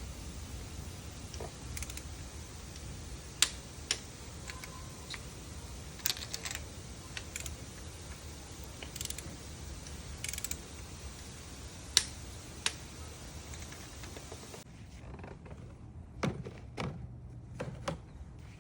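Scattered sharp clicks and light knocks of hand tools and small engine parts being handled during ignition coil and spark plug work. The steady background noise drops suddenly about three-quarters of the way through.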